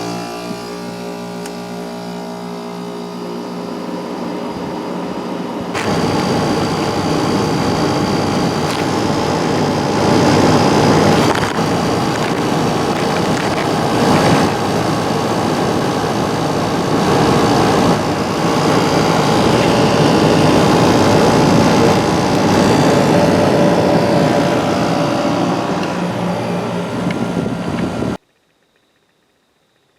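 Amana CoolZone 6,500 BTU window air conditioner running: a steady hum for the first few seconds, then about six seconds in a loud rushing noise comes in on top. The sound cuts off abruptly about two seconds before the end.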